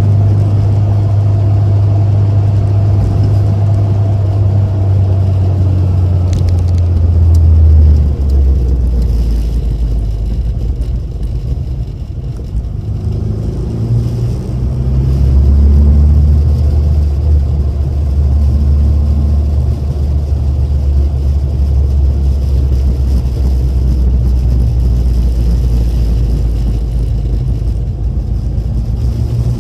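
Rover Mini's A-series four-cylinder engine running through an aftermarket sports exhaust while driving, a loud low drone. The engine note drops about eight seconds in as it eases off, stays quieter for a few seconds, then rises again as it accelerates and settles into a steady cruise.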